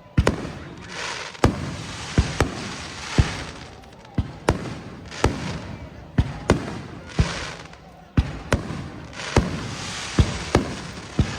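Aerial fireworks shells bursting in rapid succession: about twenty sharp bangs, roughly two a second and unevenly spaced, with a hiss of noise swelling between them.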